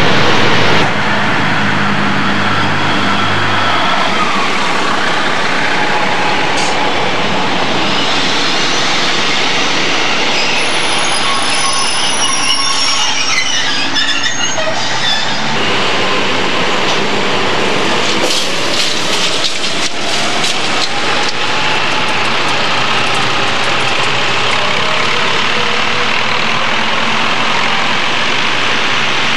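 Diesel multiple unit running on the line, its engine and wheels on the rails heard steadily. There is a high wheel squeal around the middle and a run of clicks from rail joints about two-thirds through.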